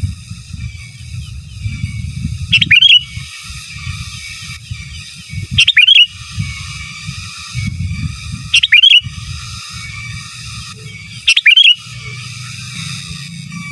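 Sooty-headed bulbul (kutilang) calling: four loud, short whistled phrases about three seconds apart, with fainter chattering between them. A steady low rumble runs underneath.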